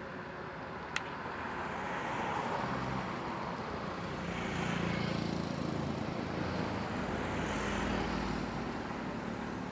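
Royal Enfield Interceptor 650's parallel-twin engine running on stock exhaust while riding, with road and wind noise. It swells in level twice, and there is one sharp click about a second in.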